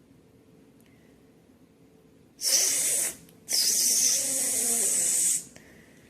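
Two loud hissing sounds: a short one about two and a half seconds in, then a longer one of about two seconds right after.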